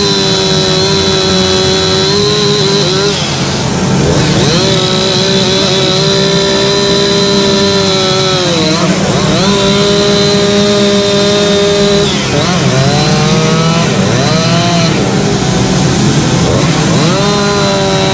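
Chainsaw running at high revs while carving wood. Its pitch holds steady for a few seconds at a time, then sags and picks up again several times as the bar goes into and out of cuts.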